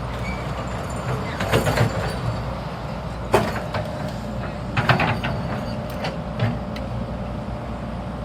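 A heavy machine's engine running steadily, with irregular sharp knocks and clanks over it about a second and a half in, at about three and a half seconds, around five seconds, and again past six seconds.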